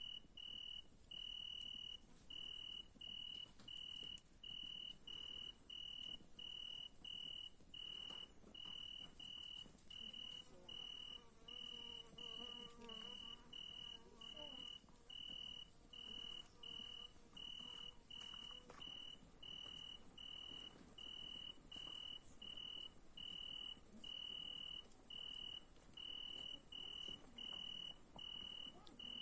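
Crickets chirping: a steady, high pulsed chirp repeating about twice a second, over a fainter, higher continuous insect buzz.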